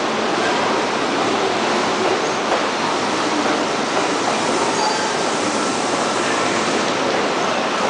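A train running on rails: a steady noise of wheels on track at an even level.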